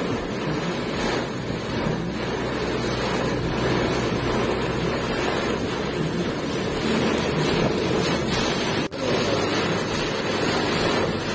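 Heavy downpour with strong wind, a steady rushing noise of rain and gusts.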